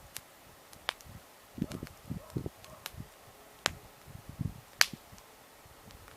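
Wood campfire crackling, with scattered sharp pops, the loudest near the end, and a few low dull thumps between them.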